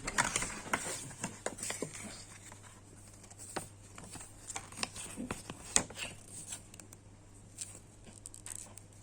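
Unboxing a hair clipper: the box and its wrapping being handled, with irregular clicks, taps and light rustling that are busiest in the first two seconds.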